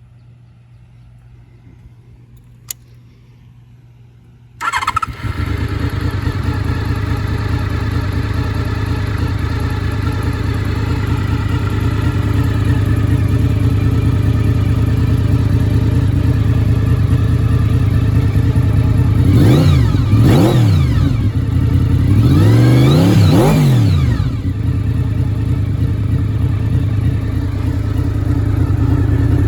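1993 Honda VFR750F's V4 engine through a Delkevic aftermarket exhaust: after a single click, the engine starts suddenly about four and a half seconds in and settles into a steady idle. Around twenty seconds in it is blipped a couple of times and then revved once more for a little longer, dropping back to idle each time.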